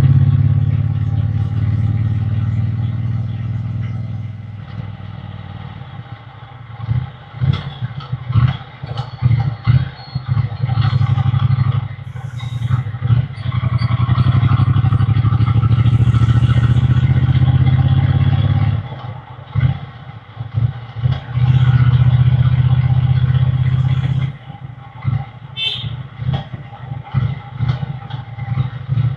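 Triumph Bonneville T120's 1200 cc parallel-twin running through its exhaust on the move, heard from the rider's seat. Steady stretches under throttle alternate with choppier, quieter stretches of uneven exhaust pulses.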